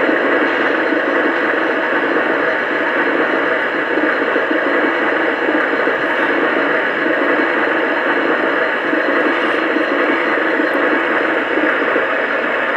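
Lionel Legacy Big Boy model locomotive's coal-loading sound effect played through its onboard speaker: a steady rushing rattle of coal pouring down the coal chute into the tender as the coal load refills.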